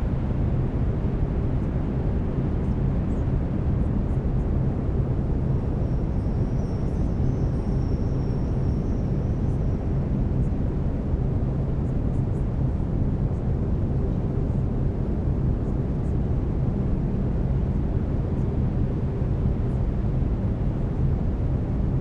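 Brown noise: a steady, deep rushing hiss, heaviest in the lows, with a faint steady low tone from the binaural-beat layer underneath.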